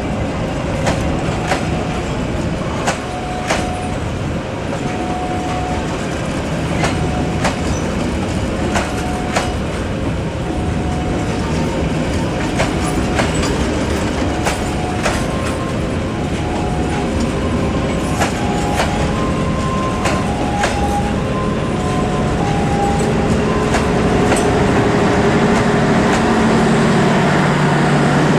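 Passenger train coaches rolling past close by, with wheels clacking over rail joints and many brief metallic wheel squeals. Near the end a diesel locomotive's engine hum comes in and grows louder as it draws alongside.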